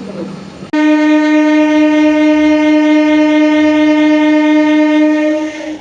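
A train horn blows one long, steady, single-pitched blast of about five seconds, starting under a second in over the running noise of a passing train and cutting off just before the end.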